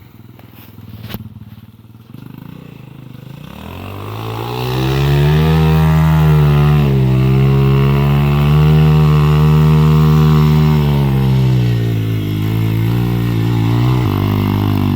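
Motorcycle engine revving: the pitch climbs from about two seconds in, then holds at high revs for several seconds with a couple of small dips, and stops abruptly at the very end.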